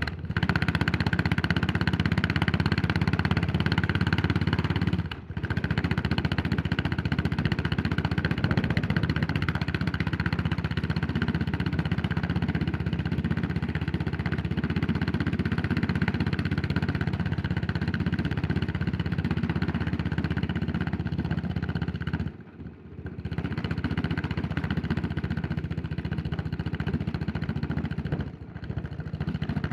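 Yamaha SR400's air-cooled single-cylinder four-stroke engine running under way on a ride. The engine sound dips briefly three times: about five seconds in, about three-quarters through, and near the end.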